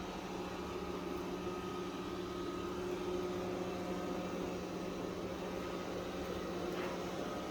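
Roborock Qrevo S robot vacuum running, a steady motor hum with a faint whine over a rushing noise, and a light click near the end.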